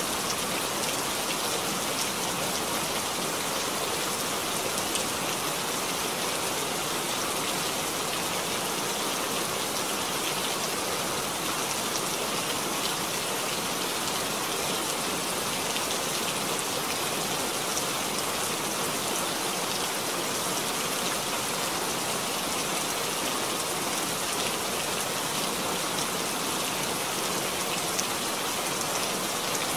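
Steady rain falling into a puddle: an even hiss made of many small drop impacts.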